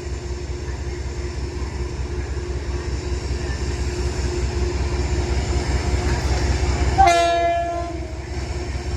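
Metro-North push-pull train approaching with its cab car leading, its low rumble building steadily. The horn sounds one short blast about seven seconds in and dies away within a second.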